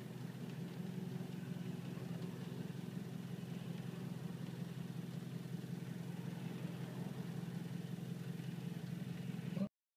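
Car engine running steadily just above idle, at about 1,000 rpm, as the car rolls to a stop: a steady low hum that cuts off abruptly near the end.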